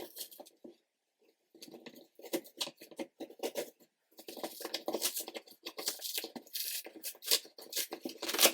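Old glued cardboard box flaps being pried and torn apart by hand: irregular scraping, crackling and tearing of dry cardboard, busier in the second half, with a sharp snap near the end.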